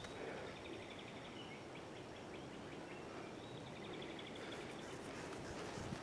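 Wild birds singing in woodland: faint rapid trills of high notes and short chirps. Footsteps on a dirt trail start again near the end.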